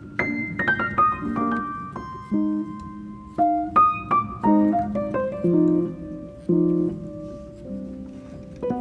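Background piano music: a gentle melody of struck notes over soft low chords.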